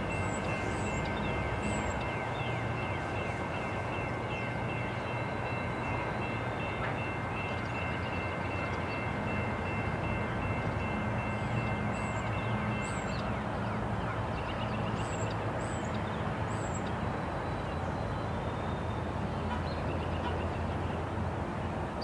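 CN freight train rolling slowly behind its diesel locomotive: a steady low engine drone over the rumble of the wheels and cars. A thin, steady high squeal runs along with it and stops about halfway through.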